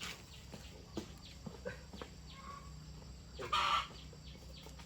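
Chickens clucking, a few short calls with one louder squawk about three and a half seconds in.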